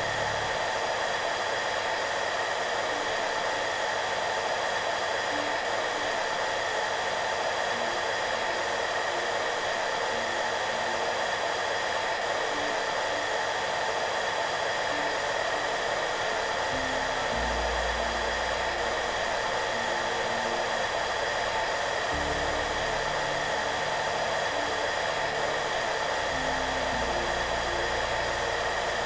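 Hair dryer running steadily, an even blowing rush with faint steady whine tones. Under it, soft background music plays low notes, with deeper bass notes joining about halfway through.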